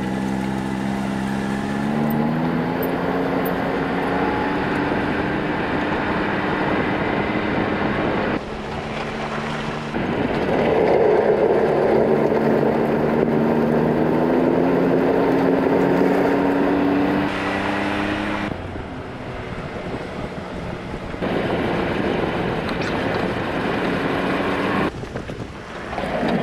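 Can-Am Maverick X3 Turbo R side-by-side's turbocharged three-cylinder engine running under way, its pitch climbing slowly as it pulls, with wind noise. The sound jumps abruptly several times.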